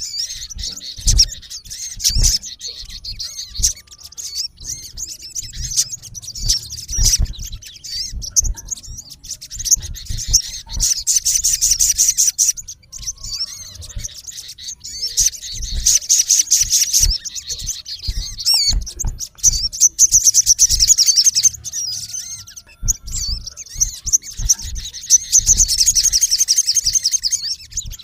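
Male olive-backed sunbird calling: high, thin chirps throughout, with four fast trilled runs of one to two seconds each from about the middle on. Scattered low thumps sound beneath the calls.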